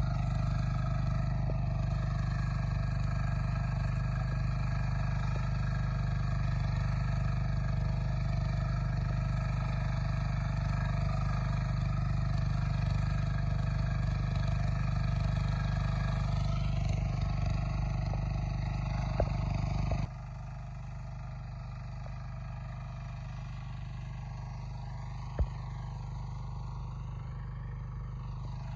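Tractor engine running steadily with a low, even drone; about two-thirds of the way in it suddenly becomes quieter and keeps running.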